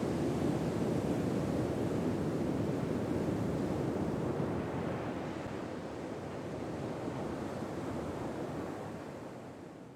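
Ocean waves washing on a shore: a steady rushing noise that slowly fades out over the second half.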